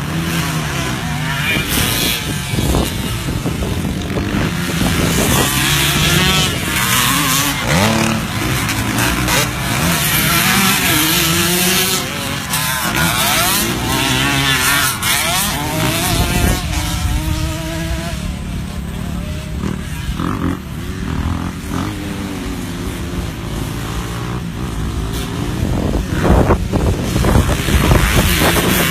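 Several vintage motocross bikes racing past, their engines revving up and down over one another as riders work through the gears. The engines grow loudest near the end.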